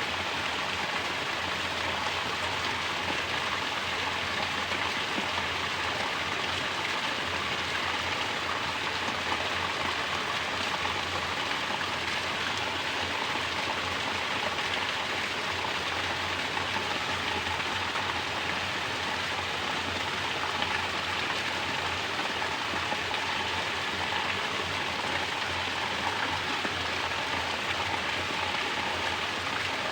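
Mountain water falling steadily in a natural shower, making a constant, even splashing rush.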